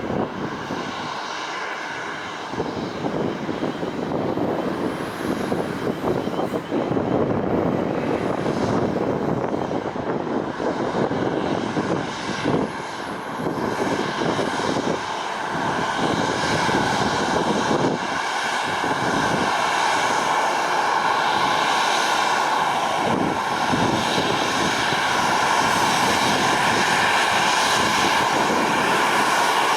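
Boeing 737-800's CFM56 turbofan engines running with a steady whine over a dense rush, growing gradually louder through the second half.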